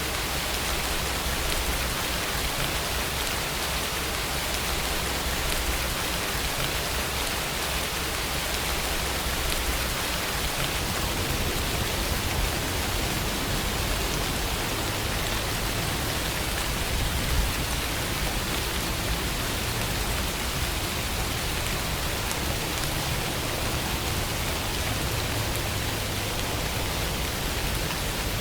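Steady rainfall, an even hiss of rain with scattered drops falling on a surface.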